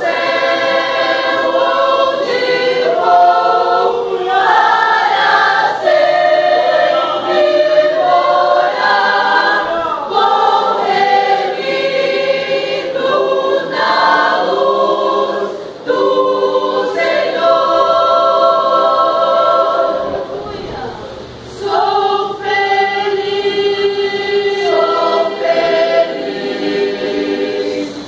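A church choir singing a hymn, many voices together holding and shifting sustained notes, with short breaks between phrases.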